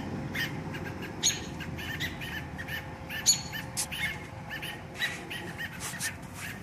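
Agitated adult American robins giving short, sharp alarm calls over and over around a fledgling that cannot yet fly, with a few louder calls standing out.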